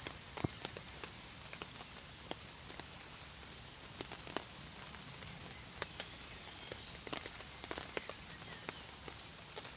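Rain falling steadily, with irregular raindrops ticking sharply on a hard surface.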